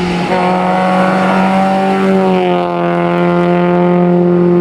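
Fiat Punto HGT rally car engine running hard at high revs. It holds a steady high note, with a short break just after the start.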